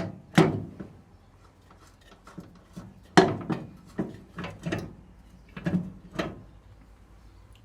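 A string of about ten irregular metal knocks and clicks, spaced unevenly and loudest from about three to six seconds in: hand tools and steel parts being handled while an engine mount is fitted loosely.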